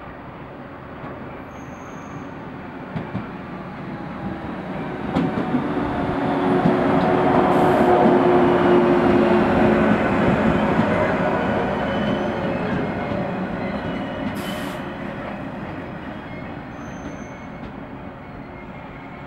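A 115-series electric train pulling into the station: its rumble builds as it approaches, is loudest with a steady tone as the cars pass close about seven to ten seconds in, then fades as it slows to a stop. A few sharp clicks from the wheels come about three and five seconds in.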